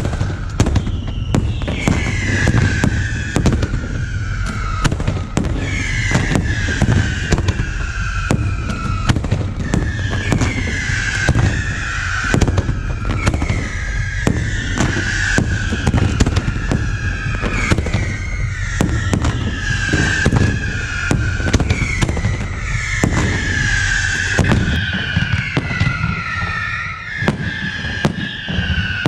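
Fireworks display going off continuously: a dense run of sharp bangs and crackles, mixed with repeated shrill whistles that fall in pitch, each lasting about a second.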